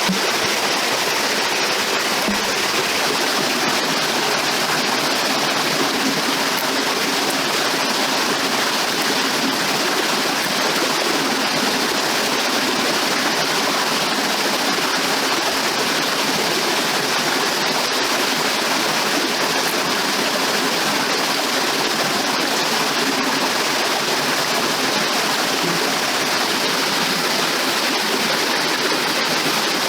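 Steady rush of running water, with no change in level throughout.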